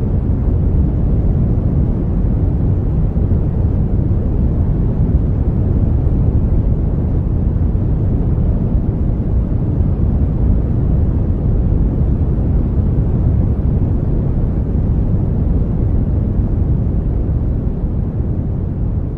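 Brown noise: a steady, even hiss weighted heavily toward the deep end, with no tones, rhythm or breaks.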